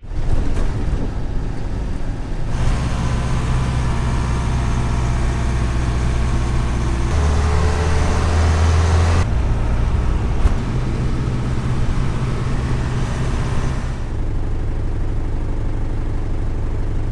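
Mercedes-Benz 608D fire truck's diesel engine running as the truck drives along, its note changing several times as the revs rise and fall.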